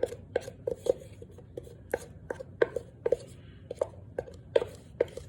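Crunchy starch being chewed close to the microphone: a steady run of sharp crunches, about three a second.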